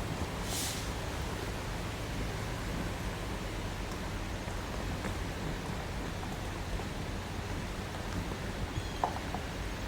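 Steady rushing outdoor noise, with a brief high hiss about half a second in and a couple of faint clicks near the end.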